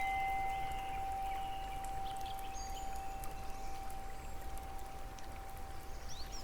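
A single chime note struck at the start and ringing on steadily, over the patter of rain with scattered drip ticks and a few short high bird chirps.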